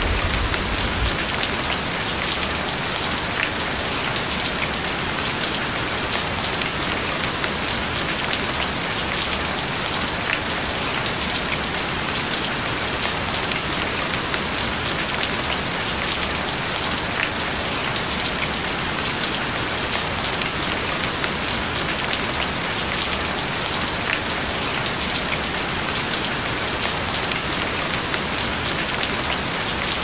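Steady rain falling, an even hiss with scattered sharper drop ticks. A low rumble fades out about a second in.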